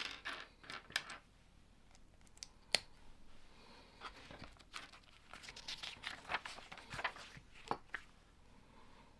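Plastic parts bags crinkling and rustling as they are handled and torn open, with a few sharp clicks of Lego pieces.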